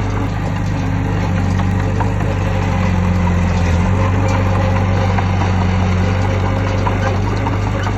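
Heavy diesel engine of an earthmoving machine running steadily with a low, even hum, its pitch shifting slightly about halfway through, and light scattered clicks over it.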